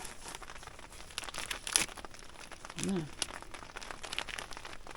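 Crinkling and rustling of handled material, with scattered sharp clicks and crackles.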